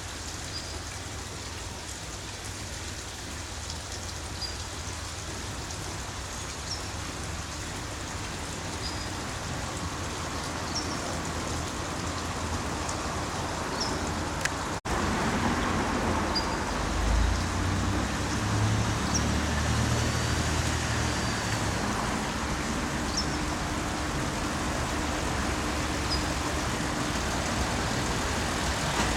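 Steady rain falling. About halfway through, after a brief break, the louder steady hum of an ET122 diesel railcar's engine running comes in. Short high chirps recur every second or two.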